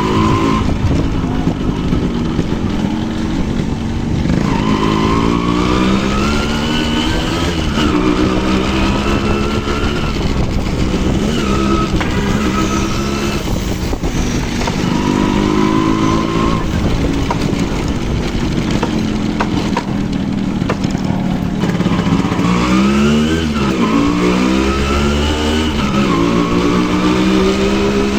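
Yamaha RX100 two-stroke single-cylinder motorcycle engine under way, revving up and easing off again and again as the bike accelerates and slows, with wind rushing over the microphone.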